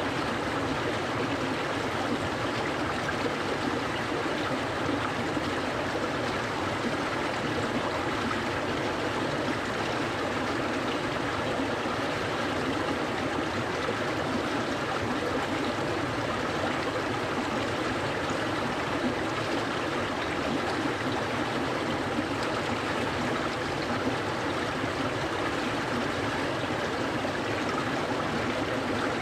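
Clear mountain stream flowing steadily, an even, continuous rush of water with no change throughout.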